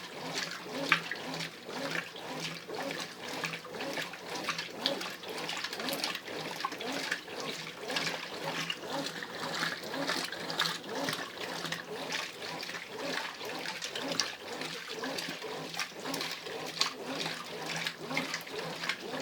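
Brastemp Ative 11 kg top-loading washing machine agitating in its heavy cycle: water and clothes slosh in the drum with a steady, rhythmic back-and-forth swish.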